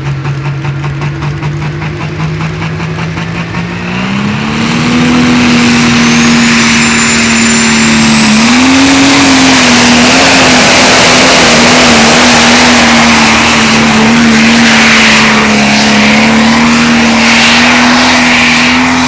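Pro Stock pulling tractor's turbocharged diesel engine at high revs. Its pitch jumps up about four seconds in as it goes to full throttle, then holds high with small wobbles as it pulls, very loud.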